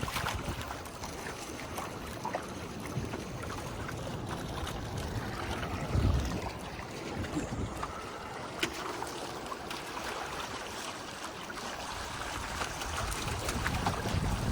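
Water rushing and trickling along the hull of a sailing canoe under way, with wind on the microphone and a low gust about six seconds in.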